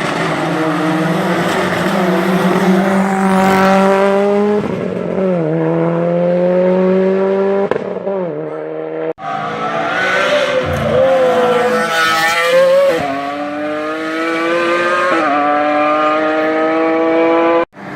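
Two race cars, one after the other, accelerating hard up a hillclimb course. Each engine's pitch climbs steadily and then drops at every upshift, about twice per car.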